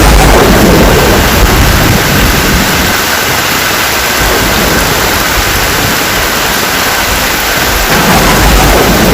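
Heavy rain falling, a loud steady hiss, with a deep low rumble in the first second and again near the end.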